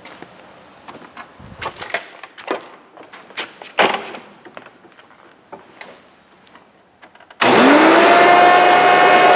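For several seconds there are scattered clicks and knocks. Then the 1995 Hoover Encore Supreme U5055-930 upright vacuum cleaner switches on with a sudden loud start. Its 7-amp motor spins up with a quickly rising whine and settles into a loud, steady whine with a rushing hiss.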